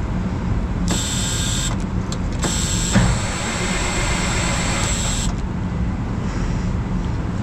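Two bursts of hissing, the second one longer, with a sharp click about three seconds in, over a steady low hum.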